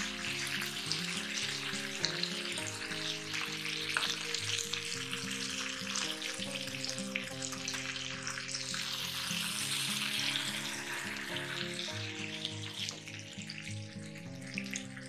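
Marinated chicken leg frying in oil in a nonstick tawa, a steady sizzle and crackle of hot oil, over background music.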